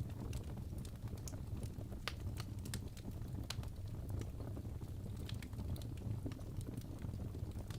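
Wood fire burning in a fireplace: a steady low rumble of the flames with irregular sharp pops and crackles.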